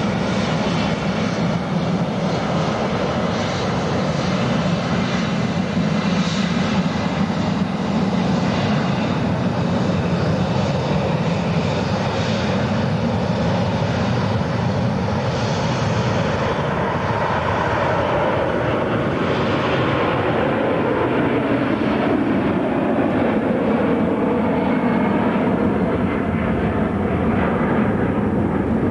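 Airliner engines running loud and steady. The high hiss fades in the last third, leaving a lower drone with slowly shifting pitch.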